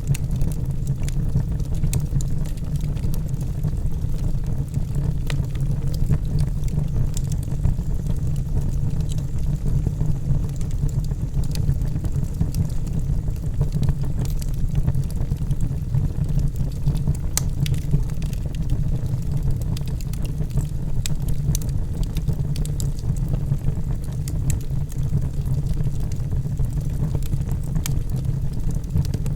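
Wood logs burning in a fireplace: a steady low noise of the fire with many scattered sharp crackles and pops.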